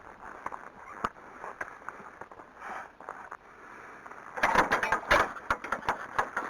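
Metal field gate clanking and rattling as it is handled, a dense clatter of knocks starting about four seconds in after a few faint clicks.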